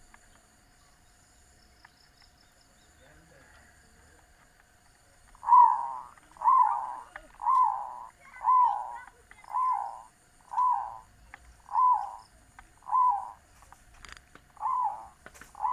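Zebra dove (perkutut) cooing: after a few quiet seconds, a run of about ten short arching coos, roughly one a second, with a brief break near the end.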